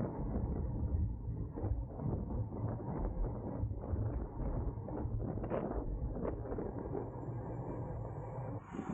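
Road racing bicycle ridden at race speed: a steady low rumble of wind and tyres, with scattered clicks and creaks from the bike.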